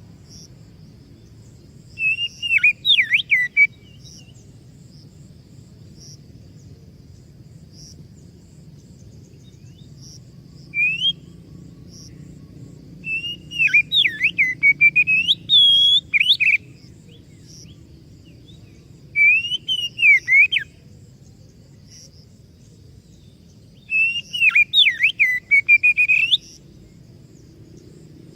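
Oriental magpie-robin (kacer) singing in short phrases of clear whistled notes that sweep up and down. Five phrases come a few seconds apart, the longest near the middle.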